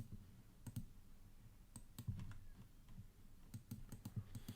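Scattered clicks of a computer keyboard and mouse being used, irregular and faint, with a low electrical hum underneath.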